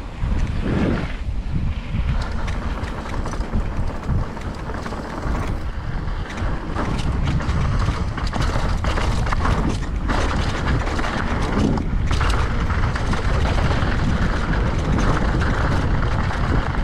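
Wind buffeting the microphone over the rattle of a mountain bike riding down a rough trail, a little louder from about seven seconds in.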